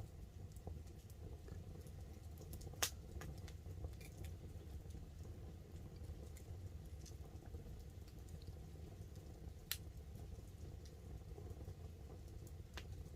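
Wood campfire burning with a steady low rumble and small crackles throughout, with three sharp pops: one about three seconds in (the loudest), one near ten seconds and one near the end. Light rain patters on the tarp overhead.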